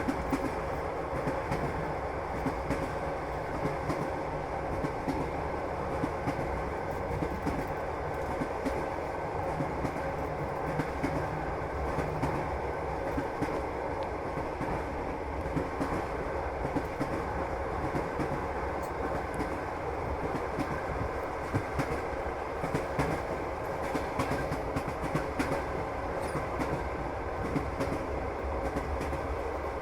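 Passenger train running steadily, heard from inside the carriage: a continuous rumble with the wheels clattering over the rails in frequent small clicks.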